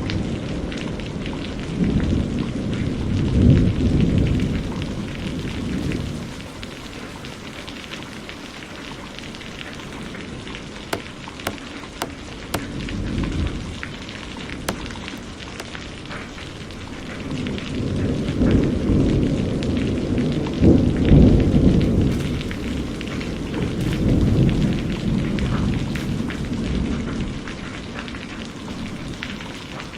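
Steady rain falling, with long low rolls of thunder a couple of seconds in and again through the second half. A few sharp ticks stand out in the quieter stretch between the rolls.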